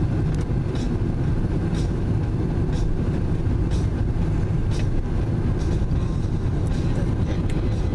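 Car in motion heard from inside the cabin: a steady low rumble of engine and tyre noise, with faint ticks about once a second.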